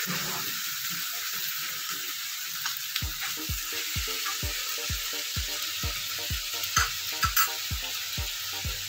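Corned beef and diced potatoes sizzling in hot oil in a wok, with a wooden spatula clicking against the pan a few times near the end. Background music with a steady beat comes in about three seconds in.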